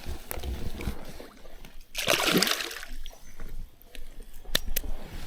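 Water splashing once, loudly, about two seconds in, as a released Murray cod is let go and kicks away into the river. A couple of sharp clicks follow near the end.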